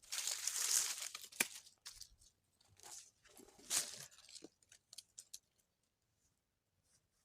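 Rustling and crinkling of material being handled, in two bursts with scattered sharp clicks, then quiet for the last two seconds.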